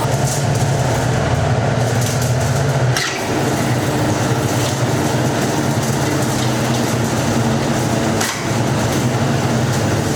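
Workshop machinery running steadily: a continuous low hum with a dense rattle, dipping briefly about three seconds in and again about eight seconds in.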